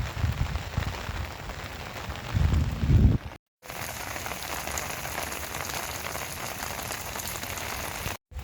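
Rain falling steadily, an even hiss. For the first three seconds low, irregular gusty rumbles sit under it, strongest just before the sound cuts out briefly. After that the rain runs on evenly until another short cut near the end.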